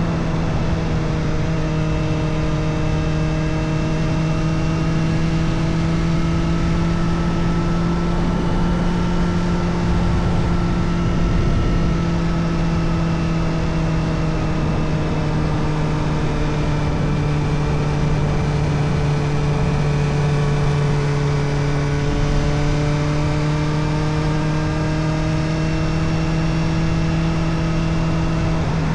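Kawasaki Ninja ZX-4RR's inline-four engine running through an Arrow Indy Race Evo titanium exhaust with its dB killer fitted, holding a fairly steady pace with its pitch drifting gently up and down. The pitch drops near the end.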